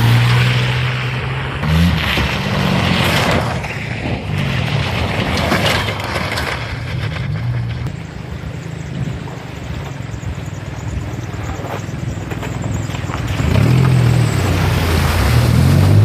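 Engine of an off-road vehicle being driven hard, revving up and dropping back several times, loudest at the start and again near the end. A broad rushing noise and a few sharp thumps run through it.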